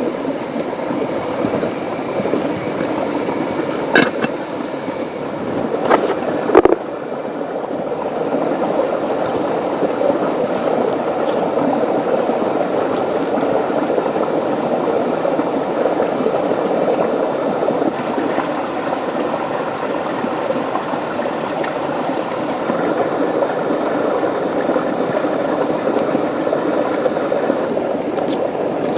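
Steady rush of a rainforest river and rain, with a few sharp clicks early and a thin high steady tone joining about two-thirds of the way through.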